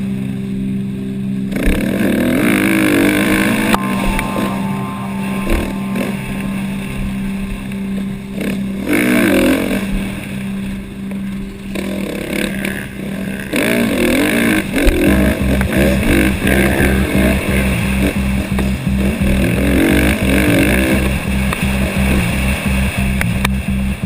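A KTM dirt bike engine rising and falling as it runs around a motocross track, mixed with background music that has sustained bass notes and a steady beat coming in about fifteen seconds in.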